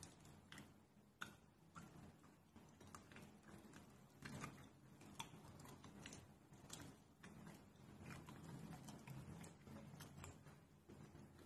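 Faint mouth sounds of chewing a soft, cocoa-dusted chocolate truffle: irregular small clicks and smacks, with one sharper click about a second in.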